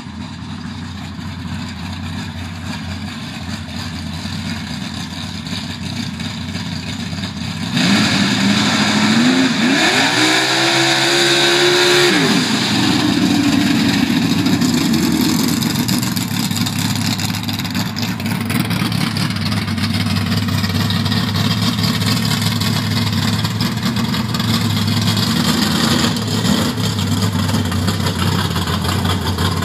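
Twin-turbo V8 of a Ford BA Falcon drag car idling, then revved hard about eight seconds in, the pitch climbing for around four seconds before dropping back. It keeps running loud at low revs to the end.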